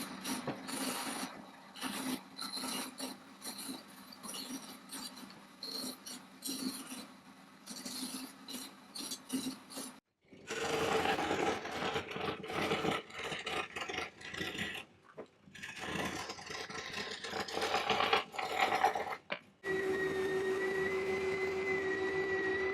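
Workshop sounds of shaping and working wood: irregular scraping and rubbing strokes, in several short stretches with abrupt breaks between them. About twenty seconds in, a steady motor tone from a power tool starts.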